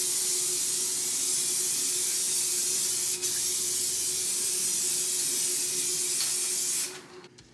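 Aerosol spray-paint can spraying in one long, steady hiss, with a momentary break about three seconds in; it cuts off about seven seconds in.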